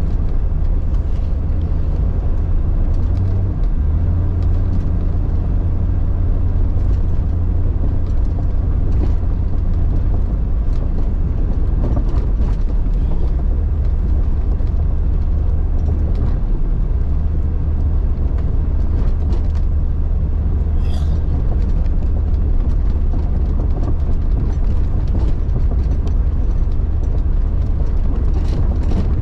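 1999 Jeep Cherokee XJ driving off-road. The engine drones steadily and low, shifting pitch slightly twice, with occasional light knocks and rattles.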